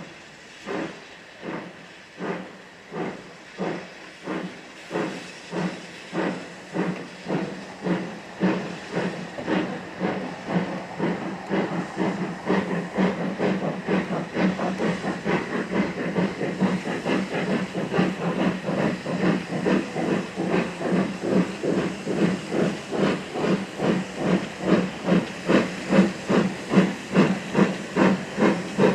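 Steam locomotive working hard, its exhaust beats slow at first and quickening steadily, growing louder as it draws nearer.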